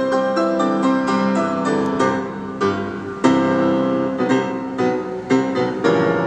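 Piano music: notes and chords struck in quick succession, each ringing and fading.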